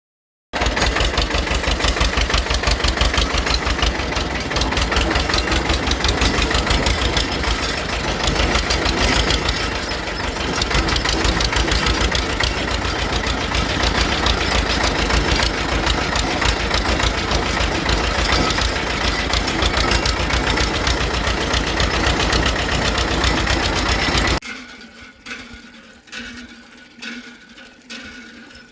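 A small motor running with a fast, even rattle, which cuts off suddenly about 24 seconds in.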